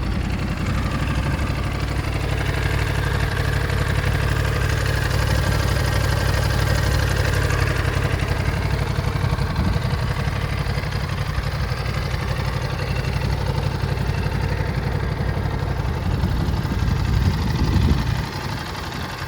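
Ducati Desert X motorcycle's 937 cc L-twin engine idling steadily, with a short blip of the throttle near the end.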